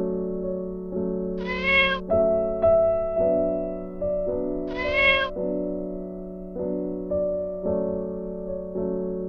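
A cat meowing twice, each meow about half a second long, over soft piano music.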